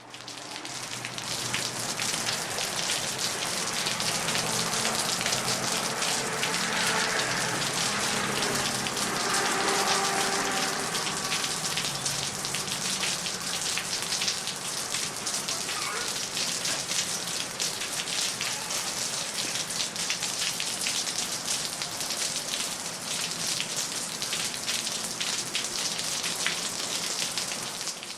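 Rain falling on city streets: a dense, steady patter of countless drops splashing on hard surfaces. It fades in at the start and fades out at the end.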